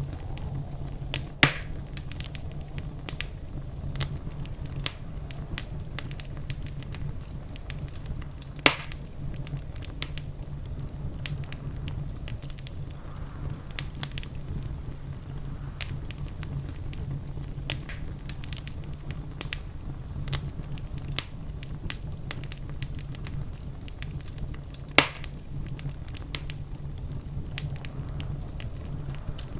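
Wood fire crackling in a fireplace: a steady low rumble of flames under frequent small crackles, with three loud sharp pops, about a second and a half in, near nine seconds, and near twenty-five seconds.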